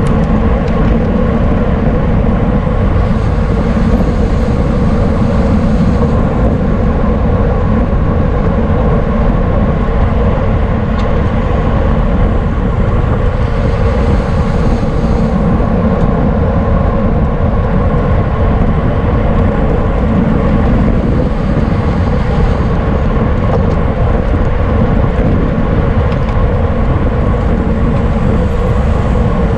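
Steady rush of wind across a camera microphone riding along on a road bicycle at racing speed, with the hum of the tyres on the road; a faint brighter hiss swells up a few times.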